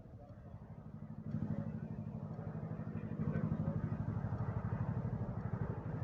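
Chinook tandem-rotor helicopter flying overhead: a fast, regular beat of rotor blades over a low engine drone, growing louder about a second in and again about three seconds in as it comes closer.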